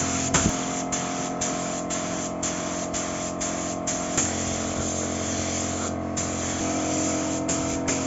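Steady hiss of spray paint being applied, broken by many brief pauses between passes, over a steady low hum.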